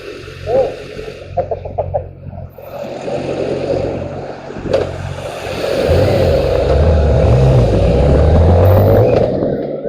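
Motor vehicle engine running, growing much louder about six seconds in and varying in pitch as it revs, then easing off near the end.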